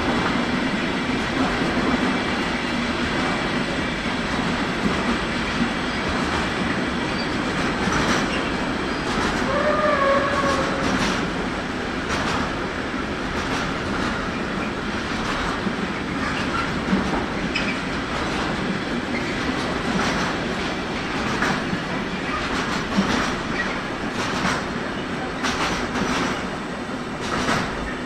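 Train running along the tracks, its wheels clicking over rail joints and points throughout, with a short high tone about ten seconds in.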